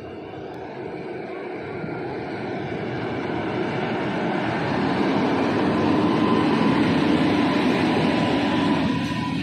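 Twin WAG-9 electric locomotives hauling a loaded coal train approach and pass close by: a steady rumble of wheels on rails that grows louder, is loudest as the locomotives go past, and eases a little near the end.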